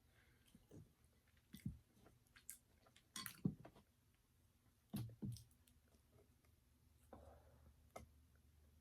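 A person chewing food close to the microphone, with faint, irregular wet mouth clicks and smacks.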